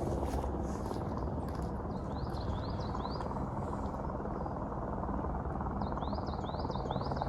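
A small bird calling in two runs of short, quick rising chirps, a few seconds apart, over a steady low drone.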